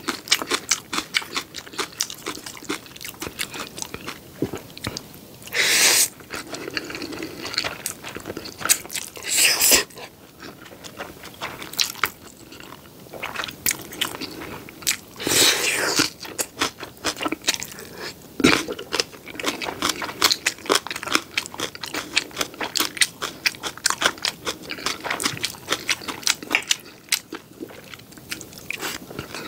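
Close-miked mouth sounds of a person eating: wet chewing and crunching of black bean noodles, green onion kimchi and fried sweet and sour pork, with a few louder, longer bursts.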